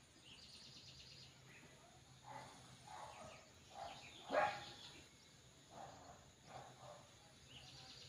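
Birds calling: a short, fast, high trill about half a second in, then a run of short, lower calls through the middle, the loudest about four and a half seconds in.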